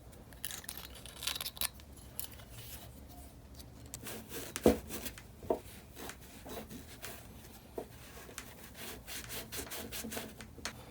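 Irregular scraping and rubbing strokes on a corroded engine exhaust valve as it is cleaned, with a couple of light knocks about the middle.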